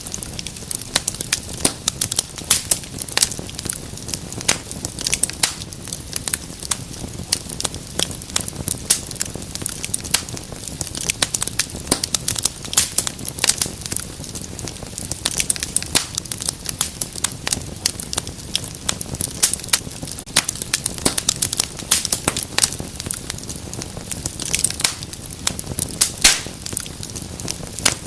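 Wood fire burning in a fireplace, crackling and popping with many sharp, irregular snaps over a soft steady hiss.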